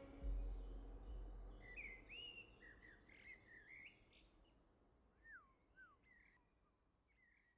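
Faint birdsong: scattered short chirps and a few downward-sliding whistles that thin out and fade near the end. A low rumble dies away over the first few seconds.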